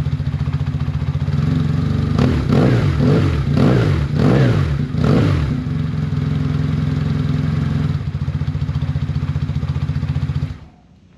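BMW BoxerCup race motorcycle's boxer twin idling during its cold-start warm-up, revved in several quick throttle blips about two seconds in, then settling back to idle before it is switched off and cuts out abruptly near the end.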